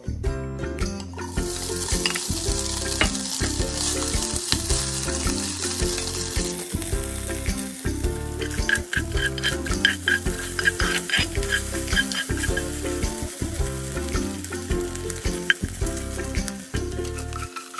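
Diced luncheon meat sizzling in hot olive oil in a heavy pot, the hiss strongest in the first few seconds. From about the middle on, a spatula scrapes and turns the cubes, making many short ticks over the frying.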